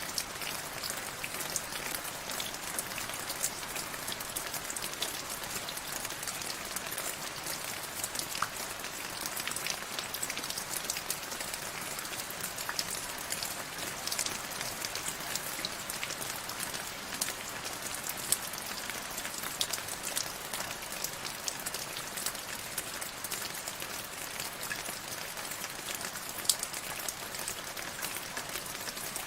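Steady rain, with many individual drops ticking on a surface over a constant patter.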